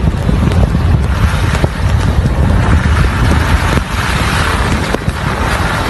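Strong blizzard wind blowing on the microphone: a loud, deep, gusting rumble with a hiss over it.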